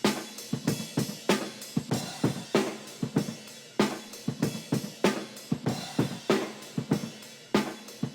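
Electronic drum pattern playing back from the track: kick, snare, hi-hats and cymbals in a steady repeating groove, several hits a second, with little deep bass under it.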